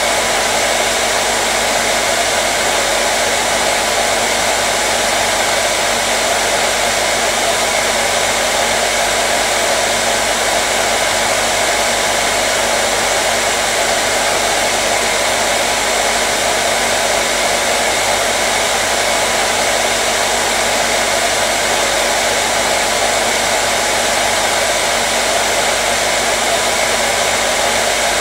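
Electric hair dryer running steadily: an even, unchanging rush of blowing air with a faint motor hum.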